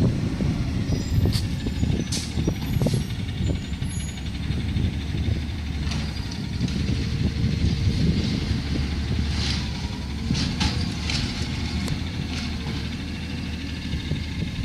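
Garbage truck's engine running steadily with a low rumble, with scattered clanks and knocks about a second in and again near the ten-second mark.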